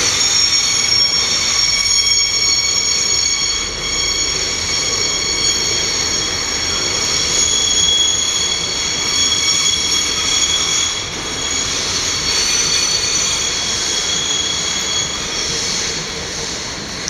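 Train wheels squealing on the rails as railway cars roll slowly past: several high, steady squealing tones held over a rolling rumble.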